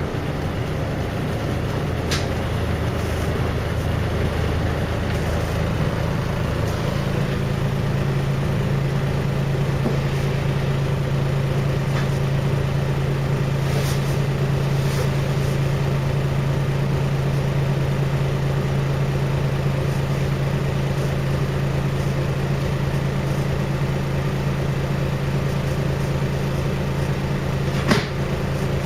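Scania L113 bus's 11-litre straight-six diesel engine running: a low steady note at first, rising about seven seconds in to a higher note that then holds steady. A few sharp clicks or knocks, the loudest near the end.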